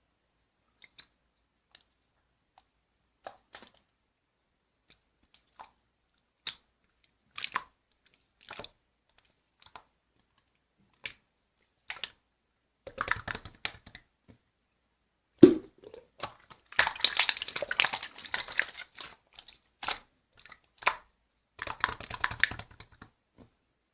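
Slime being squeezed and stretched by hand: scattered sticky clicks and pops at first, then denser runs of crackling squishes, with one sharp pop about two thirds of the way through.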